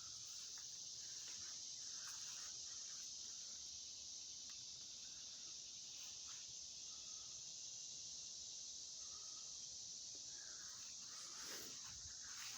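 Insect chorus outdoors: a steady, high-pitched continuous buzzing trill, with a few short chirps over it and some faint rustling near the end.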